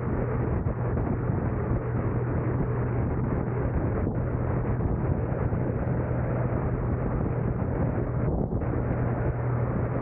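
A car driving steadily: continuous road and wind noise with a steady low hum under it.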